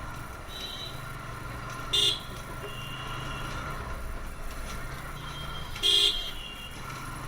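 Two short vehicle horn toots, about four seconds apart, over steady motorcycle engine and road noise.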